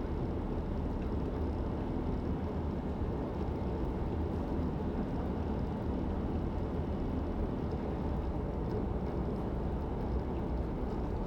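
Steady road and engine noise of a moving car, heard inside the cabin as an even low hum without change.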